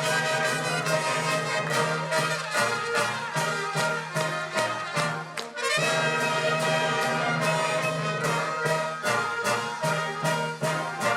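Brass-heavy wind band music with trumpets and trombones, playing a tune over a steady beat.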